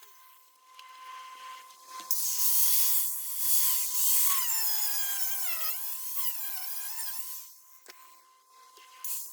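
A handheld power tool's motor whining as it works steel, with a loud hissing grind from about two seconds in until about seven and a half seconds. The motor's pitch sags and recovers several times as it bears on the work.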